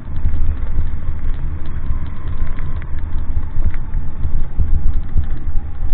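Steady low rumble of a vehicle on the move, with faint clicks and rattles over it.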